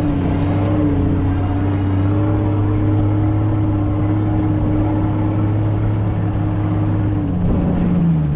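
Off-road vehicle engine running at steady revs while driving, with the engine note dropping lower near the end as it changes speed.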